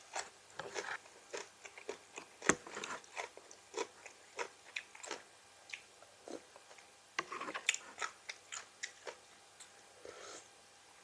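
A person chewing and crunching crisp raw vegetables close to the microphone, with irregular sharp crunches several times a second and a short lull midway.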